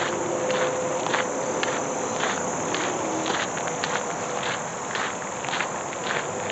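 Footsteps walking through woodland ground cover at about two steps a second, over a steady chorus of insects.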